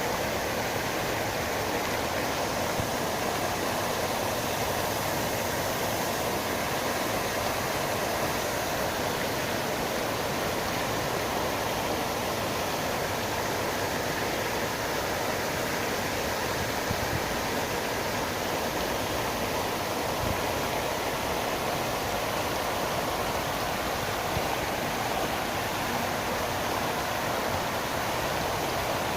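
Park fountain water falling and splashing in a steady, unbroken rush.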